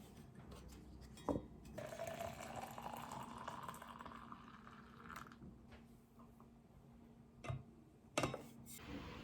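Liquid poured into a glass, the pitch of the pour rising steadily as the glass fills. There is a sharp knock just before the pour and two more knocks near the end.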